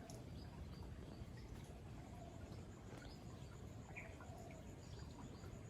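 Faint outdoor ambience: an insect gives a high-pitched, rapid, even pulsing throughout, with a few short, scattered bird chirps.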